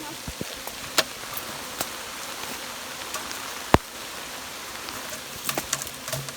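Steady rain falling, with scattered sharp clicks and ticks over it, one louder click a little past halfway.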